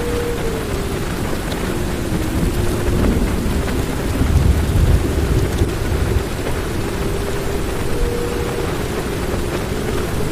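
Heavy rain falling on a car's roof and windows, heard from inside the cabin, with a low roll of thunder that swells about four seconds in and dies back down. A faint wavering hum runs underneath.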